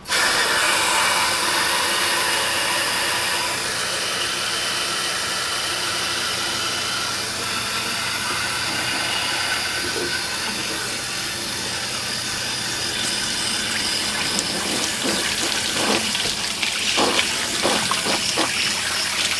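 Pressurised water from a hose-fed flush wand spraying into an Atwood RV water heater tank through its drain opening and gushing back out, a steady rushing hiss that starts suddenly at the beginning and turns more splashy near the end. It is the tank being flushed of sediment buildup.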